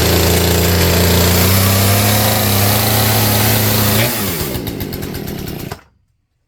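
Poulan 3416 34cc two-stroke chainsaw engine running fast and steady. About four seconds in its speed falls away, and it dies abruptly about two seconds later: a stall showing that the new Hipa carburetor needs adjustment.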